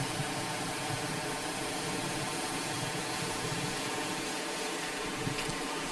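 Steady, unbroken rushing of a nearby stream.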